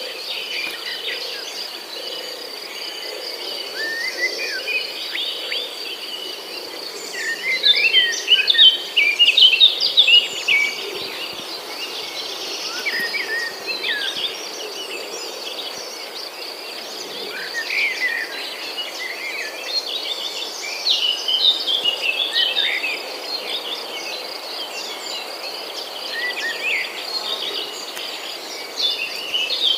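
Small birds calling and twittering in repeated clusters of short, high chirps, over a steady thin high-pitched tone.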